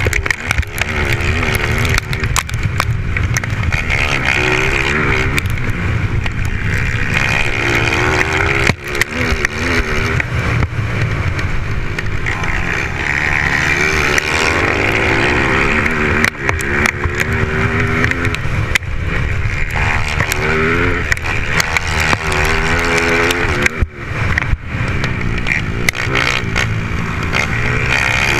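Motocross bikes racing on a dirt track, their engines revving up and down in pitch over and over as the riders work the throttle through the course.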